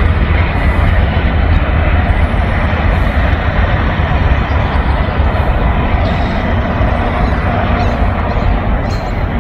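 A freight train passing close by, its distributed-power locomotive (DPU) working hard with a steady, loud rumble and a thin steady whine over it; the speaker's word for it is screaming.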